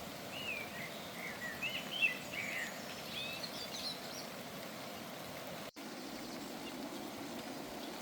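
Steady rain hiss with a small bird's quick chirps and twitters through the first four seconds. The sound drops out for an instant near six seconds.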